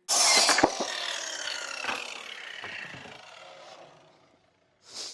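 Electric power saw cutting briefly, then its blade spinning down with a falling pitch and fading away over about four seconds, with a sharp knock about half a second in.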